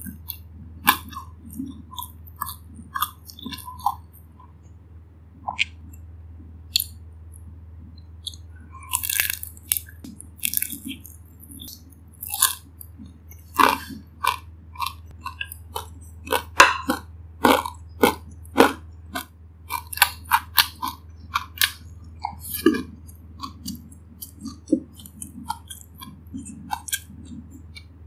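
A person chewing and biting into crisp fried dumplings: irregular wet mouth clicks and crunches, thickest through the middle, over a steady low hum.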